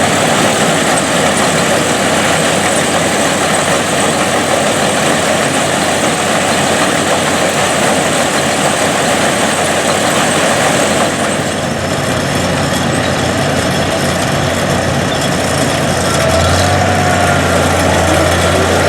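Vintage farm tractor engines and corn-harvesting machinery running steadily. The sound thins about two-thirds in, and near the end a steady low engine hum comes in.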